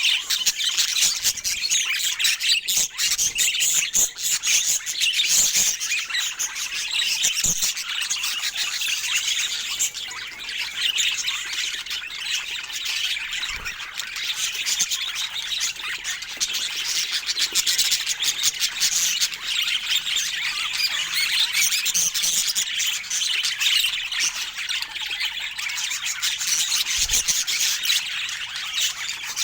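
Budgerigars chattering and warbling nonstop, a dense stream of quick chirps and squawks with scattered sharp clicks.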